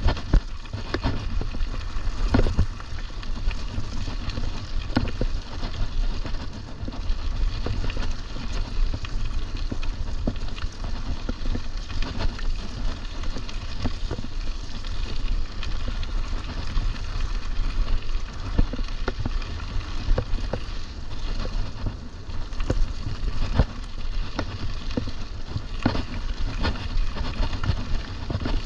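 Mountain bike being ridden over rough ground: a steady rumble of tyres and wind, with many irregular clicks and rattles from the bike as it jolts along.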